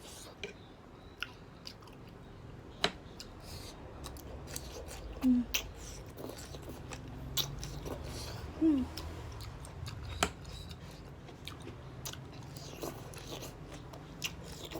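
A person chewing spicy jajangmyeon noodles close to the microphone, with scattered wet mouth clicks and smacks. Two louder short, low, falling sounds come about a third and about halfway through.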